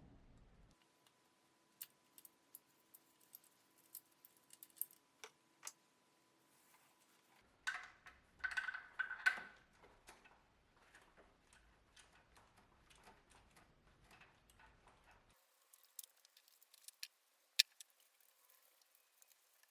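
Light metallic clicks and clinks of hand tools and small metal parts being handled, with a short run of louder clattering about eight to nine and a half seconds in.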